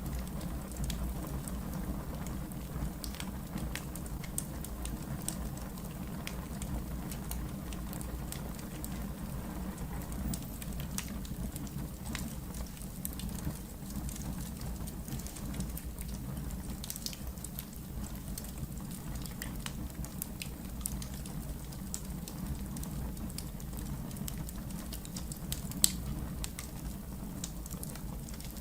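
Wood fire burning in a fireplace: a steady low rumble of flames with scattered small crackles and snaps, and one louder pop near the end.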